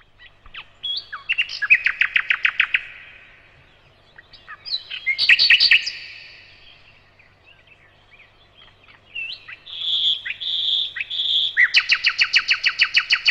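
Birdsong: rapid trills of evenly repeated chirping notes, in three bouts. Three short steady whistled notes come just before the last trill.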